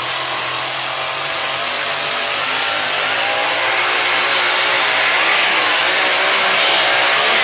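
Engine of a pulling tractor or truck running hard at full throttle. The sound is loud and steady, with a wavering pitch, and grows a little louder toward the end.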